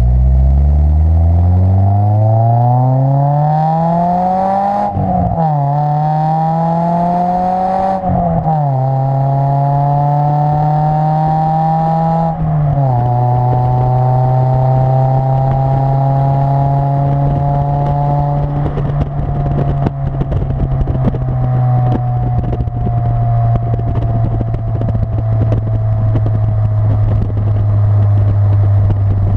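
Second-generation Mitsubishi Eclipse's exhaust, fitted with an aftermarket muffler, as the car accelerates through the gears: the engine note climbs and drops sharply at three upshifts, about five, eight and twelve seconds in. It then holds a steady note at cruise and slowly falls as the car eases off.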